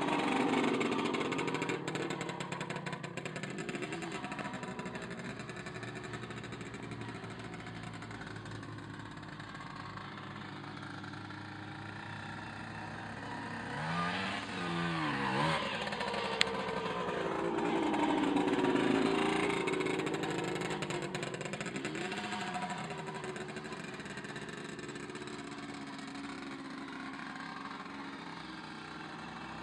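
Puch MC 175 two-stroke motocross motorcycle running, its engine pitch rising and falling as it is ridden and revved. It is loudest at the start and again about two-thirds through, with a quick run of rev blips just before that.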